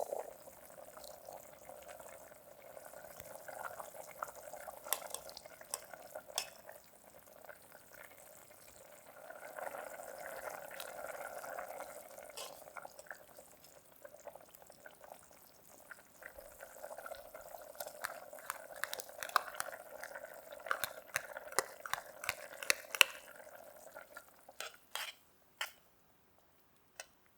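A pot of meat and vegetables simmering in water with a soft bubbling, while foam is skimmed off and a ladle clinks lightly against the pot. The clinks come thicker near the end, then the sound stops a few seconds before the end.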